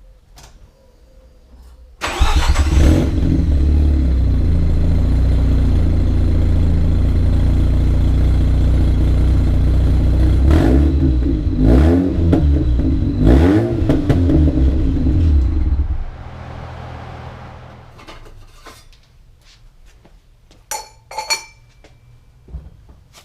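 Mazda RX-8's Renesis 13B rotary engine starting about two seconds in, idling, revved in a few short blips, then switched off after about fourteen seconds. A few faint knocks follow near the end.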